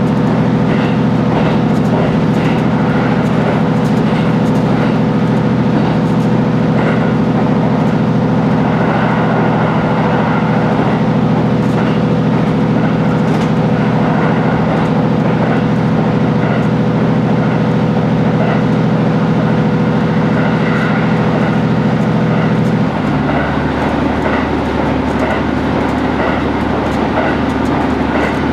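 JR East HB-E210 hybrid diesel railcar running, a steady drone from its engine-generator and electric traction drive with faint regular clicking of the wheels on the rails. About 23 seconds in, the drone changes and drops lower in pitch.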